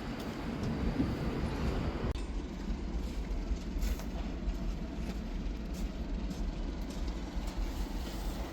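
Komatsu excavator's diesel engine running with a steady low rumble. About two seconds in, the higher part of the sound suddenly drops away, leaving mostly the deep rumble.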